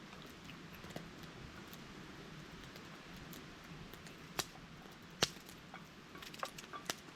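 Wood campfire burning with a soft steady hiss and scattered sharp crackles and pops, the loudest about five seconds in and a quick cluster of smaller ones near the end.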